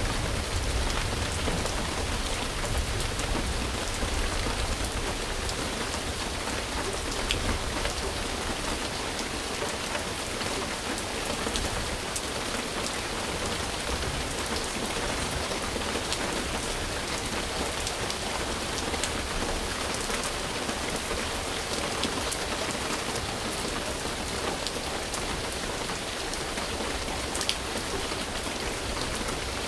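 Steady rain falling on a surface, an even hiss with scattered sharper drop ticks. A low rumble under it eases off over the first several seconds.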